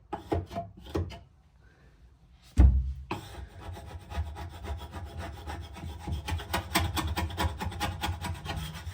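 Hand scraper rasping over a wooden cabinet surface, lifting paint-stripper-softened old finish, in short quick strokes. A few strokes, a brief pause, a single heavy knock, then rapid continuous scraping.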